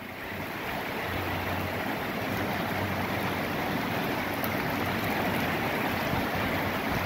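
Steady rain falling, growing louder over the first two seconds, then holding steady.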